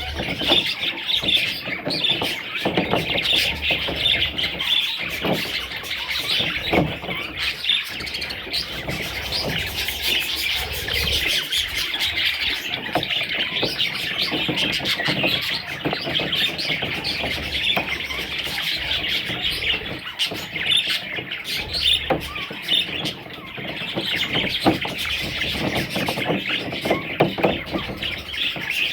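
A group of budgerigars chattering and chirping nonstop, many calls overlapping into a dense, steady warble.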